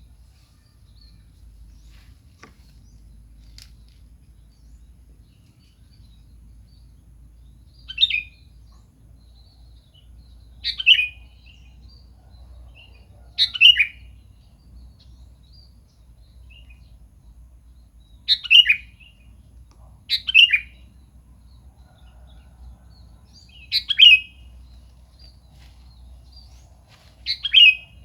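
Sooty-headed bulbul (kutilang) calling: seven short phrases a few seconds apart, each a quick cluster of notes falling in pitch, over a faint low hum.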